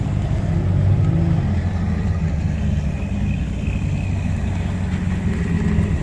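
A car engine running steadily at low speed, a deep continuous drone.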